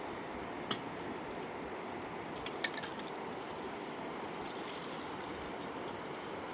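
Steady rushing of a river, with a sharp click a little under a second in and a quick cluster of clicks or knocks about two and a half seconds in.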